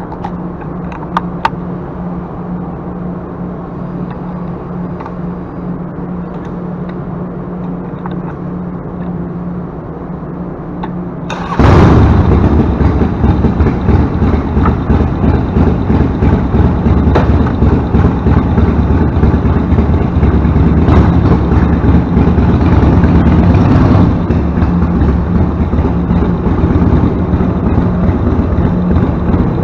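A steady low hum, then about eleven seconds in a Harley-Davidson Sportster's air-cooled V-twin, fitted with a Vance & Hines Short Shots Staggered exhaust, starts up and runs loudly with an uneven, pulsing beat.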